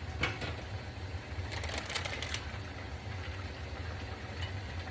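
A pan of noodles, chicken and vegetables simmering and crackling in broth, over a steady low hum, with a short burst of clicking about one and a half to two and a half seconds in.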